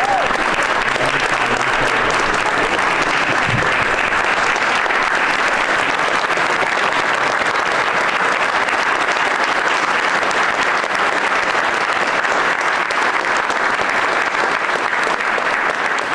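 Crowd applauding steadily, a dense unbroken clapping with a few cheers, after the signing of an executive order.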